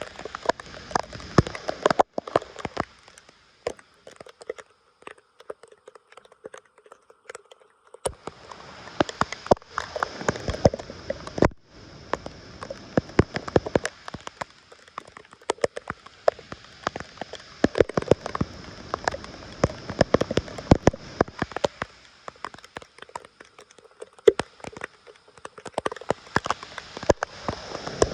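Water splashing and dripping with many small sharp clicks and crackles, stopping and changing abruptly at several points.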